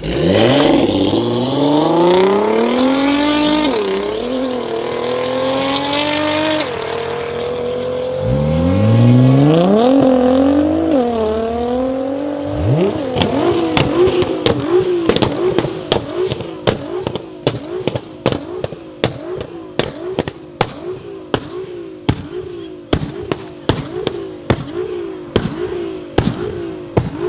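Nissan GT-R R35 twin-turbo V6s accelerating hard, the engine pitch climbing steeply and stepping through gear changes twice. From about halfway in, a GT-R revs over and over in quick blips with a rapid run of loud exhaust pops and bangs, the unburnt fuel igniting in the exhaust of a pop-and-bang tune.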